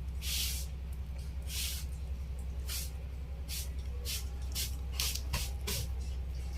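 Soldering iron sizzling in short hissing bursts as it melts solder and flux onto the lithium-ion cell connections, about ten times at uneven intervals, over a steady electrical hum.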